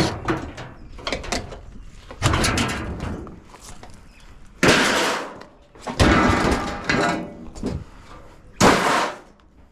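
Sheet-steel parts of a dishwasher being handled and dropped: four loud metallic clangs and clatters, some left ringing, with quieter rattling between them.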